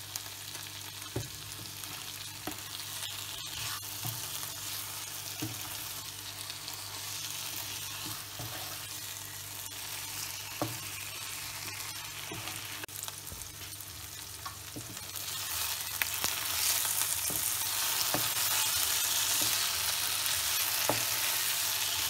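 Chicken pieces sizzling as they fry dry in oil in a nonstick wok. A wooden spatula stirs them, knocking lightly on the pan every second or two. The sizzle grows louder about two-thirds of the way through.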